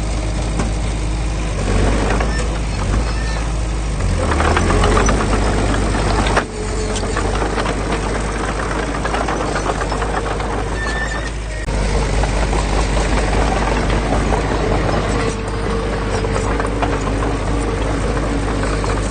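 Diesel engine of heavy earthmoving machinery running steadily under load. Its sound breaks off abruptly twice for a moment.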